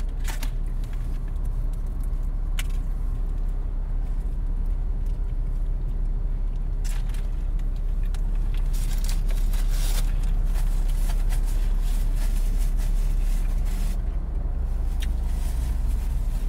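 Steady low rumble of an idling car heard from inside the cabin. Over it come several short bursts of crinkling as a paper food wrapper is handled and opened.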